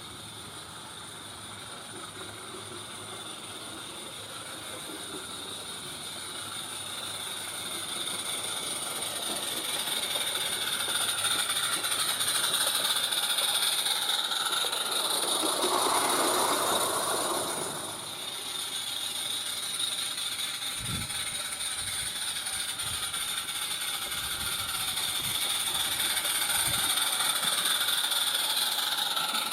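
Accucraft Caradoc, a 16mm-scale gas-fired live steam locomotive, running along garden railway track with steam hissing. It gets louder over the first dozen seconds, dips briefly past the middle and builds again, with a few faint low knocks in the second half.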